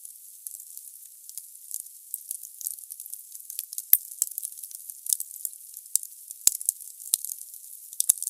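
Firewood burning in a fireplace: a steady hiss of fire dotted with many small crackles and a few sharper pops, the loudest about four seconds in.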